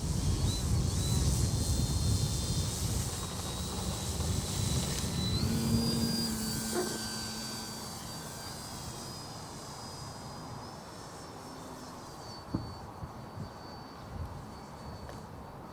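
Durafly Ugly Stick V2 RC plane's brushless electric motor and propeller whining at high throttle as it takes off and climbs away. The pitch steps up and down with throttle changes. A low rumble in the first six seconds gives way to a quieter, more distant whine in the second half.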